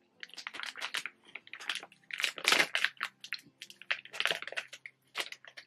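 A person chewing a sugar-coated Haribo lemon-and-ginger gummy sweet close to the microphone: irregular, closely spaced mouth clicks and squelches.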